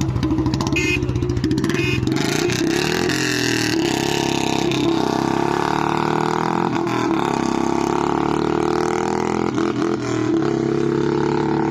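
Single-cylinder motorcycle engine. It starts out in an even pulsing beat and is revved up about two seconds in, then runs on at higher speed, loud and steady.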